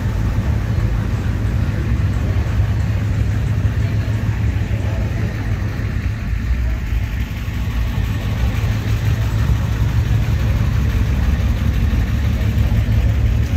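Car engines running steadily, the sound heavy in the low end, with indistinct voices in the background.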